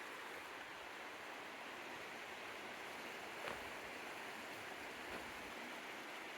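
Steady rushing of flowing river water, an even wash of noise, with a couple of faint ticks about halfway and near the end.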